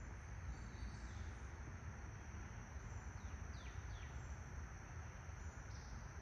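Faint outdoor ambience: a steady high insect drone over a low rumble, with two quick falling bird chirps about three and a half and four seconds in.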